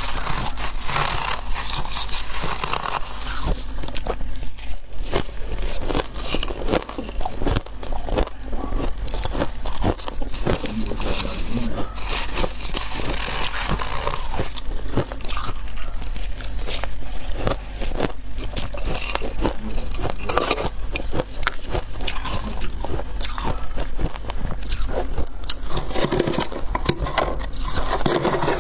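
Close-miked biting and chewing of freezer ice: dense, continuous crunching and crackling, with scraping mixed in.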